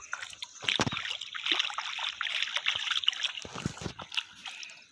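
Shallow river water sloshing and splashing, with a couple of low thumps about a second in and again near the end.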